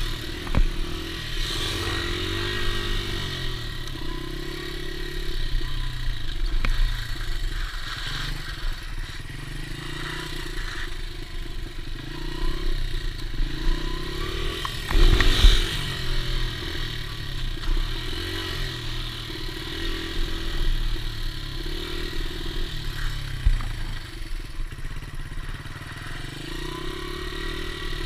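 Dirt bike engine being ridden, its note rising and falling again and again as the throttle is opened and closed. There is a loud knock or clatter about fifteen seconds in.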